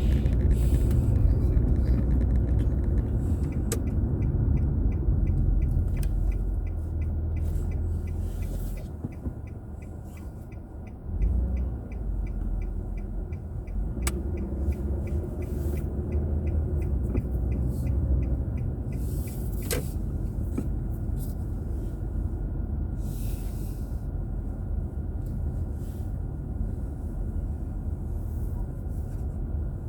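Car driving in traffic, heard from inside: low road and engine rumble. The rumble dies down as the car slows almost to a stop, then picks up again as it pulls away. Through the slowdown a turn-signal indicator ticks about three times a second.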